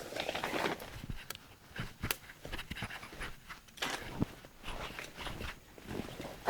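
Heavy panting breaths, repeating about once a second, mixed with clicks and rustling.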